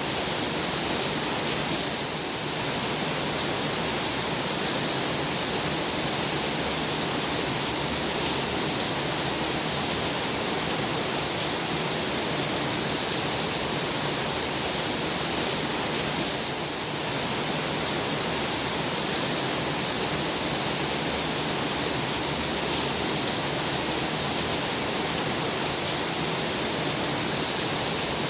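Heavy rain pouring down steadily as a dense, even hiss, easing very slightly for a moment twice.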